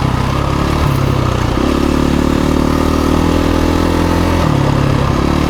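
KTM 350 EXC-F dirt bike's single-cylinder four-stroke engine running. Its note rises about a second and a half in and drops back near the end.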